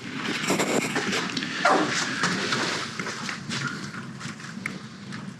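Kindling fire crackling in the firebox of a newly built brick fireplace just lit for its first test firing, with irregular sharp snaps and small knocks.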